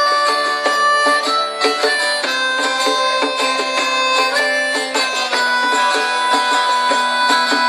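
Live acoustic folk band playing an instrumental passage: plucked and strummed strings under long held melody notes.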